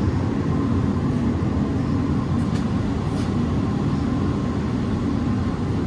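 Chinese diesel heater's blower running steadily during a start-up attempt, with a couple of faint ticks; the burner has not yet fired.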